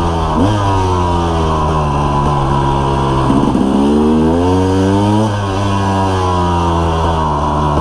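KTM EXC 300's single-cylinder two-stroke engine, with a full FMF exhaust, running under the rider's throttle. Its pitch sags, jumps up and climbs from about three seconds in, then drops suddenly a couple of seconds later and eases down again.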